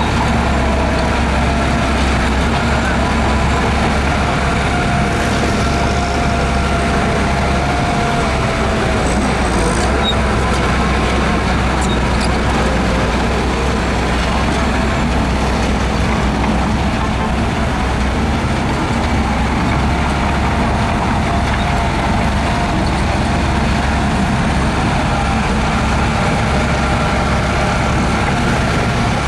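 Heavy diesel engine of earthmoving machinery, a bulldozer or dump truck, running steadily under load. A faint whine comes and goes a few seconds in.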